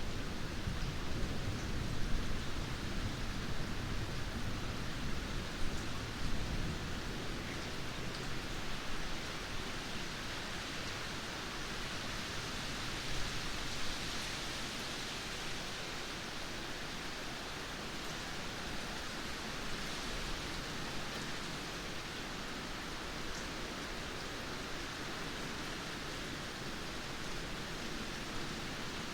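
Steady rain of a thunderstorm, an even hiss. A low thunder rumble rolls under it for the first several seconds and dies away.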